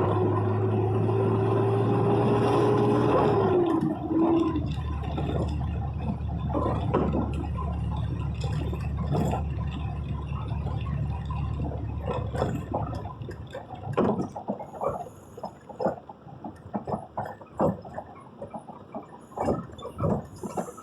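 Vehicle travelling in heavy rain: a steady whine with a low hum drops in pitch and stops about four seconds in, leaving an even road-and-rain rumble. About two-thirds of the way through the rumble fades and irregular taps, like raindrops striking the vehicle, take over.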